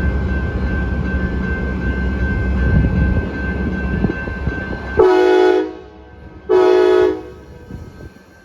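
A train running past with a loud rumble and a steady high tone, which stops abruptly about five seconds in. Then a locomotive horn sounds two short blasts.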